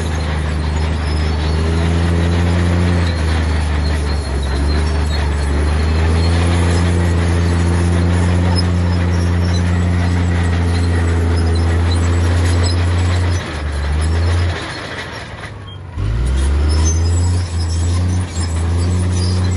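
Heavy diesel engine of earthmoving machinery running under load with a steady low drone and small shifts in pitch. The sound falls away for a moment about fifteen seconds in, then comes back at full strength.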